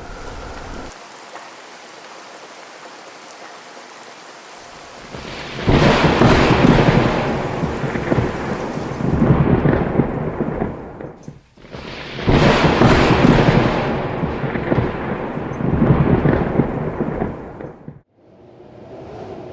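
Rain hissing steadily, then two long rolls of thunder of about five seconds each over heavy rain, each cutting off abruptly.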